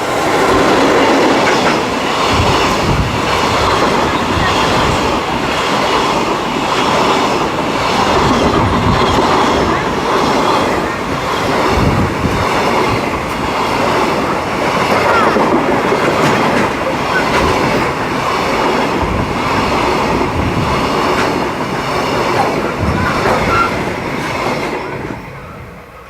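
Freight train of Koki 50000 container wagons rolling past close by: steady loud rail noise with repeated clickety-clack thumps of the wheels over rail joints, fading away about a second before the end as the train goes by.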